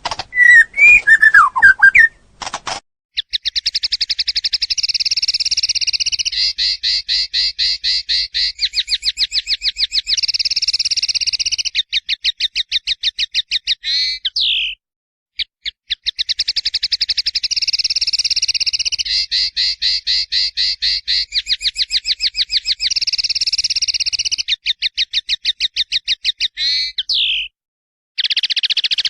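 A finch singing long, very fast rolling trills of rapidly repeated high notes in phrases a few seconds long, with brief breaks, after a short, louder burst of gliding whistled notes at the start. The same song run repeats about halfway through.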